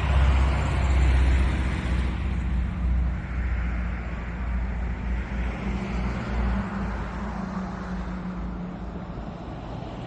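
Road traffic: a motor vehicle passing close by, its engine hum and tyre noise loudest in the first couple of seconds and then slowly fading away.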